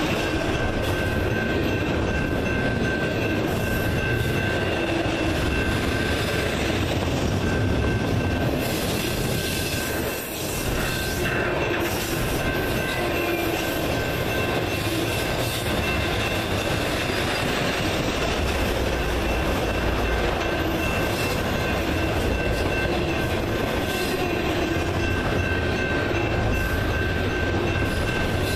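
Double-stack intermodal container train rolling past at speed: a steady rumble of steel wheels on rail with a thin, steady high-pitched wheel squeal over it. The sound dips briefly about ten seconds in.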